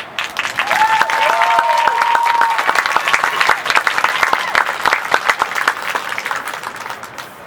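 Audience applauding and cheering in the stands as the band's music stops, with one long whistle in the first few seconds; the clapping thins out toward the end.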